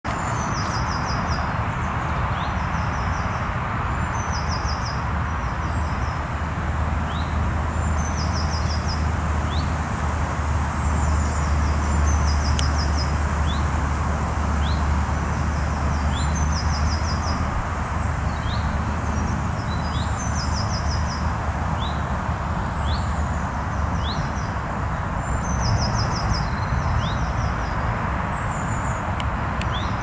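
Small songbirds singing: a short, high trilled phrase repeated every second or two, with thin sliding notes in between, over a steady low rumble.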